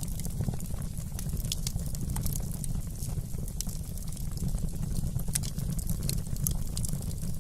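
Wood fire crackling: frequent small, irregular pops and snaps over a steady low rumble of burning flames.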